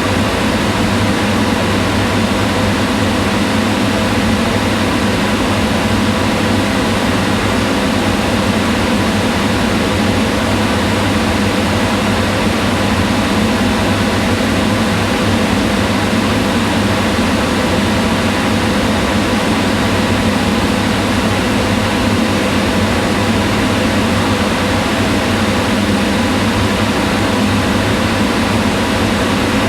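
Kitchen range hood exhaust fan running steadily: an even rushing of air with a low hum and faint steady tones, unchanging throughout.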